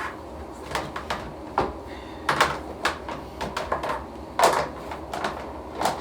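Irregular hard plastic knocks and clatters, about a dozen, as the parts of a small portable washing machine are handled and fitted back into its tub.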